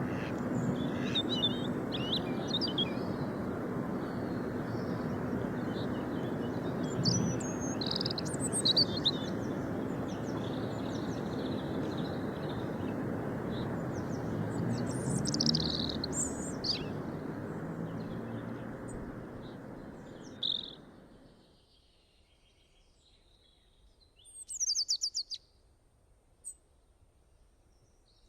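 Birds chirping and calling in short high notes and trills, over a steady low hiss that fades out about three-quarters of the way through, leaving only scattered chirps.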